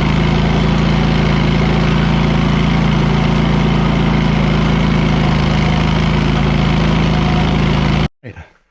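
Wright Stander stand-on mower's engine running steadily at a constant speed. It cuts off suddenly about eight seconds in.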